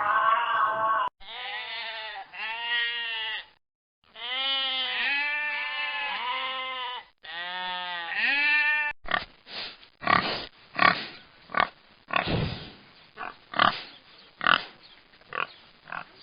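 A pig grunting in a quick run of short, rough grunts through the second half, after several drawn-out animal calls with a rising-and-falling pitch in the first half.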